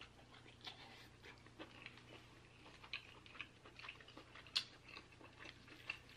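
Faint close-up eating sounds: someone chewing crab meat, with scattered small wet clicks and crackles and one sharper click a little past the middle.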